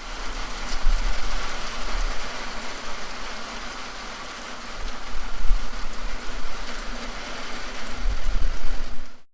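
Rain falling with gusts of wind buffeting the microphone, swelling about a second in, again midway and near the end.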